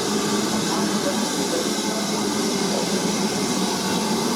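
Train in motion: a steady rushing noise with hiss.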